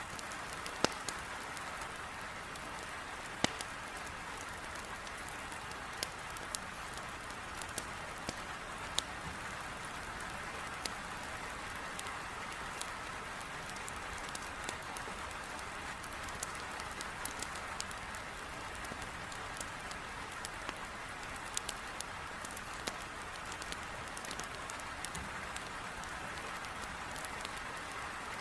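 Heavy rain falling in a steady hiss, with irregular sharp crackles and pops of burning firewood in a fireplace scattered through it, a few every couple of seconds.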